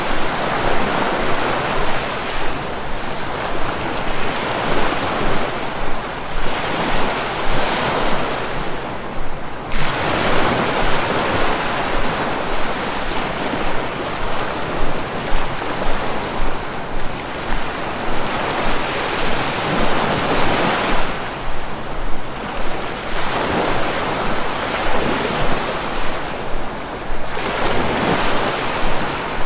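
Sea waves breaking and washing on the shore, a continuous rush of surf that swells and eases every few seconds.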